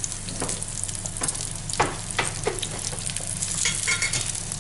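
Eggplant slices sizzling as they fry in olive oil in a nonstick pan, with several sharp clicks of a metal fork against the pan as the slices are turned.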